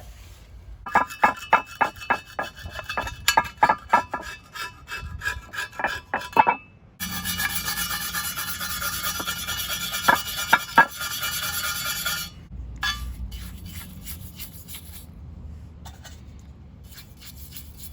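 Metal parts being scraped and brushed clean: about six seconds of rapid, uneven scraping strokes, then about five seconds of steady, continuous scrubbing, then a few lighter strokes near the end.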